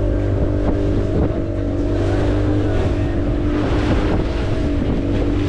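Motorboat engine running steadily under way, with wind buffeting the microphone and water noise.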